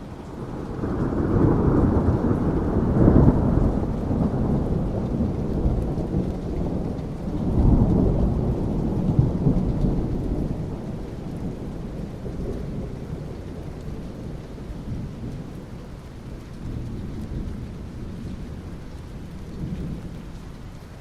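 Thunder rumbling over rain: a long low roll that swells in the first few seconds, swells again about eight seconds in, then slowly dies away under the steady hiss of rain.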